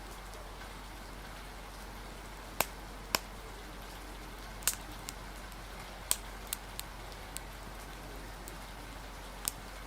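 Steady rain hiss with a few scattered sharp pops and clicks at irregular intervals, in a cafe-and-forest ambience mix.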